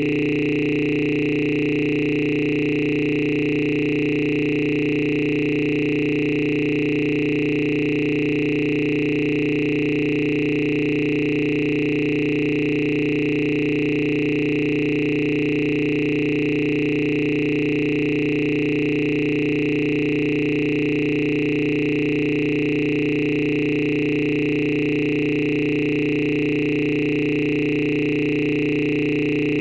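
Steady electronic drone: several sustained tones, some low and some high, held without change.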